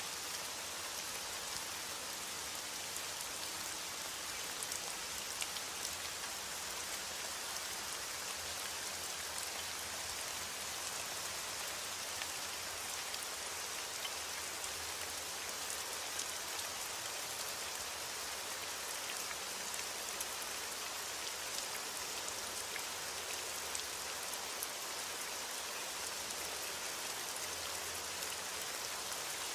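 Heavy rain on a window: a steady, dense hiss with scattered small ticks of drops.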